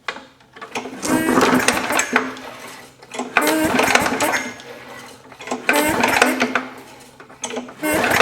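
Briggs & Stratton 500 series lawn mower engine cranked over four times by its recoil pull-starter, each pull a second-long rapid clatter of knocks and clinking. It is the sign of a really bad rod knock.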